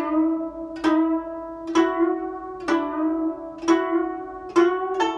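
Guzheng played slowly, single plucked notes about one a second, mostly the same note repeated and each left to ring, with the pitch stepping up near the end. The left hand presses the strings to shape the pitch of the melody.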